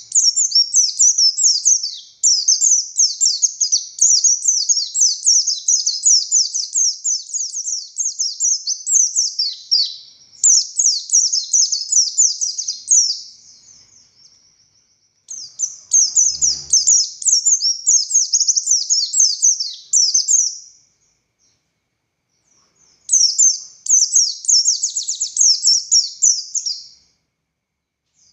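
Buxtoni white-eye (pleci) singing its long, rapid, high twittering song in three long bouts with short pauses between them.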